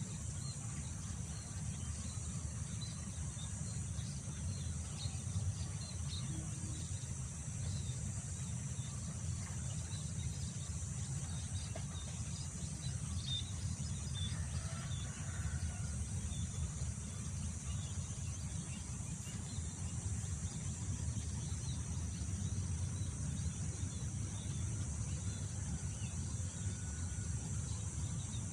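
Wind rumbling low on the microphone under a steady high chorus of chirring insects, with scattered faint bird chirps.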